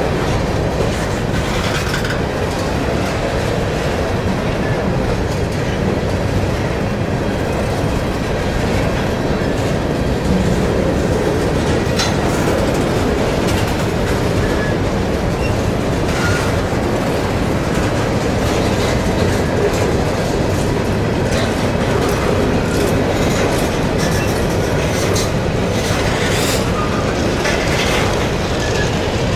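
Covered hopper cars of a freight grain train rolling past close by: a steady rumble of steel wheels on rail, with scattered clicks as wheels cross rail joints and now and then a faint brief squeal.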